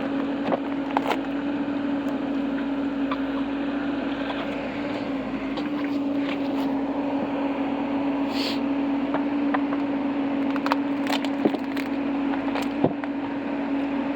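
Excavator's diesel engine running at steady revs, with scattered sharp clanks and scrapes as the bucket digs into frozen ground.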